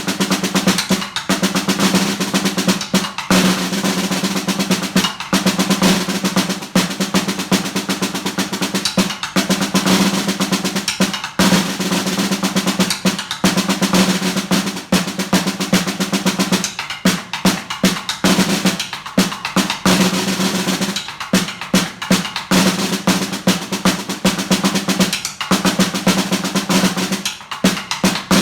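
Solo snare drum playing fast, dense strokes and rolls, snares rattling, with short breaks and accents every second or two, in a piece that imitates a train.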